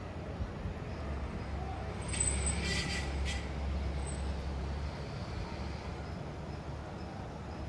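Street traffic noise as a large vehicle goes by: a low engine rumble swells about two seconds in and fades a few seconds later, with a brief hiss at its peak.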